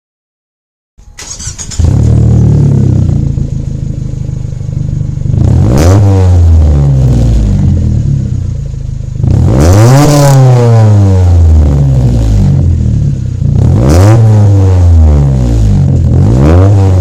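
Mazda Protege 5 four-cylinder engine revved through a new 2.5-inch header-back exhaust with a GReddy RS muffler and Vibrant resonator. It is blipped four times, each time rising in pitch and falling back to a steady idle.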